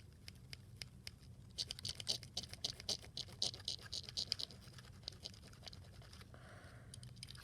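Quick scratchy strokes of colouring on a small die-cast Hot Wheels toy car, with scattered ticks. The strokes come in a dense run from about a second and a half in, then thin out.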